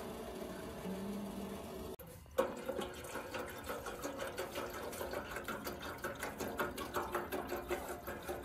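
Water poured into a small tea kettle, a fluttering, gurgling pour that starts just after a knock about two seconds in.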